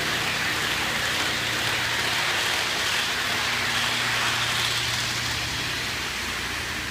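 Lionel Santa Fe model train running on its track: an even rushing rattle of wheels on rail over a steady low hum, a little louder in the middle and easing slightly toward the end.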